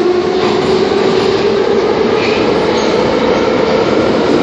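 Ezh3-type metro train (81-710 rebuilt as 81-508T) running, heard from inside the car: a steady rush of wheel and rail noise with a motor tone rising slowly in pitch as the train gathers speed.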